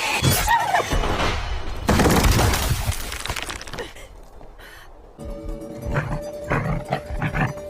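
Loud crashing, shattering sound effects in the first few seconds, then background music comes in about five seconds in, with a held note over pulsing beats.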